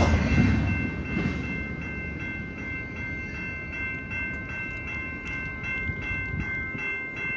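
A double-stack intermodal freight train's last car passes and the train moves away; its rumble drops off over the first second or so, leaving a quieter steady rumble and a steady high-pitched ringing of several tones.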